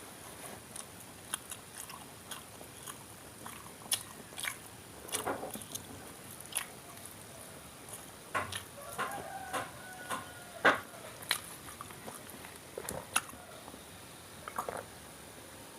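Close-up biting and chewing of fried tofu and tempeh, with scattered crisp bites and mouth clicks.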